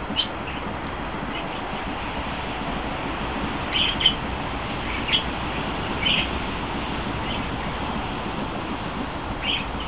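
Birds chirping in short, scattered calls, about seven in all, over a steady hiss.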